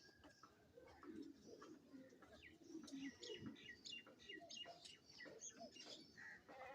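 Faint chirping of pet birds, many short high chirps and quick calls clustering in the middle, with soft low cooing beneath.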